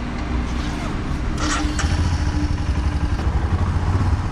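Royal Enfield Himalayan's single-cylinder engine running at idle, getting louder about two seconds in, with two short sharp clicks just before.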